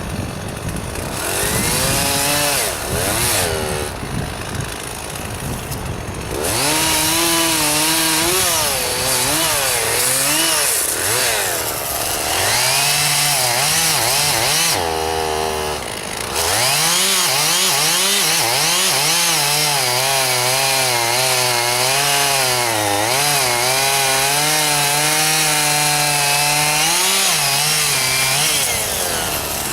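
Two-stroke chainsaw cutting through juniper wood. The engine speed rises and sags under load, and it briefly eases off twice before going back into the cut.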